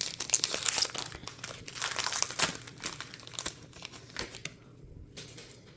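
Foil booster-pack wrapper of Pokémon trading cards crinkling and rustling as it is handled and the cards are taken out. Busiest in the first three seconds, it dies away about four and a half seconds in.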